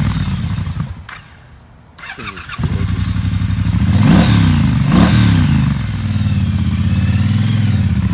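A 2017 Triumph Bonneville Bobber's 1200cc parallel-twin engine dies away and starts again about two seconds in. It is revved twice and then settles to a steady idle.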